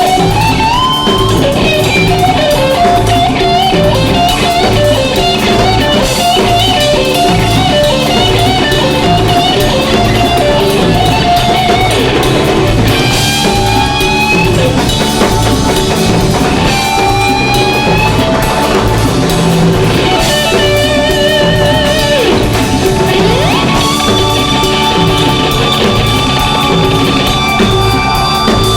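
A live rock band playing: a lead line with pitch slides, bends and wide vibrato over a steady drum beat and held chords.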